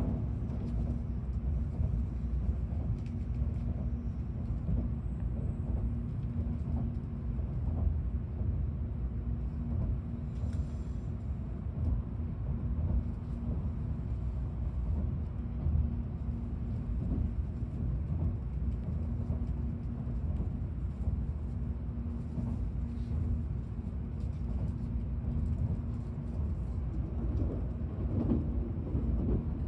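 Shinkansen train running, heard inside the passenger car: a steady low rumble with a faint steady hum.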